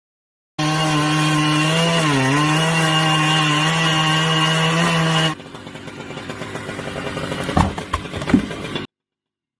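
Chainsaw running at full throttle, its pitch dipping briefly as it loads in the cut about two seconds in. It cuts off abruptly about five seconds in, and a quieter stretch follows with two sharp knocks near the end.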